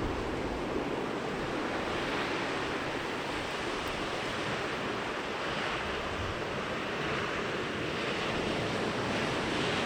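Sea surf: small waves rolling in and washing up a beach, a steady hiss that swells every few seconds.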